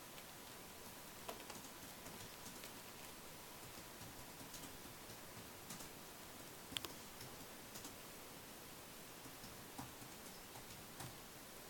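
Faint, irregular clicks and light taps over a steady hiss, with one sharper click about seven seconds in.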